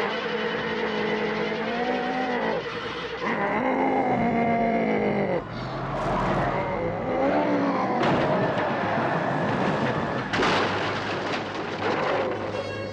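Cars in a high-speed chase: engines revving hard and tyres squealing and skidding, in long wavering squeals that bend up and down in pitch. A sharp burst of noise comes about ten seconds in.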